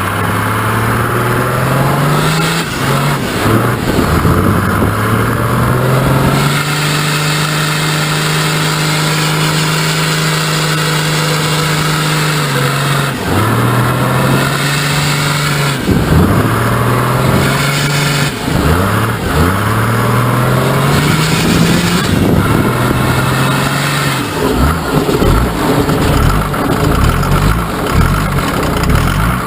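Mercedes OM603 inline-six twin-turbo diesel in a 1941 GMC CCKW 6x6 truck running hard under load. The revs climb and drop back again and again, are held high for about six seconds in the middle, and turn to an uneven lower rumble near the end.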